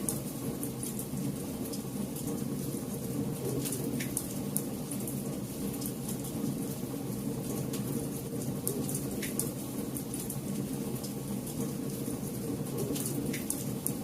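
Campfire burning: wood crackling with irregular small snaps and a few sharper pops over a steady low rush of flames.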